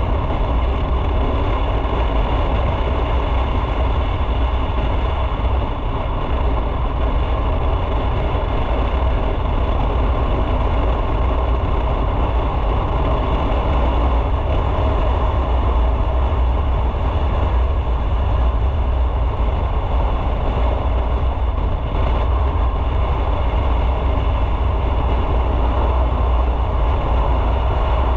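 Motorcycle underway at a steady pace: continuous engine and riding noise with a strong, even low rumble.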